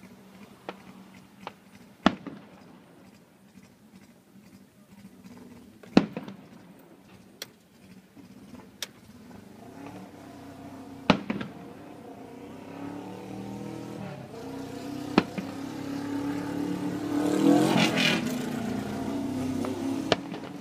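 Firework shells bursting: five sharp bangs a few seconds apart, with faint crackles between them. From about halfway a vehicle engine grows louder under the bangs and is loudest near the end.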